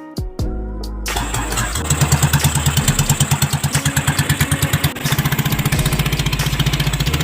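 A small engine running with a rapid, even chugging beat. It dips briefly about five seconds in and then runs on steadily.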